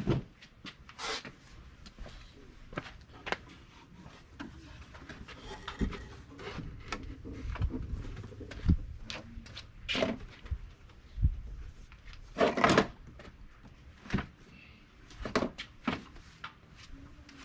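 Carpet and a plywood floor piece being handled on a work table: irregular knocks, thumps and rustles, with a louder rustling burst about twelve seconds in.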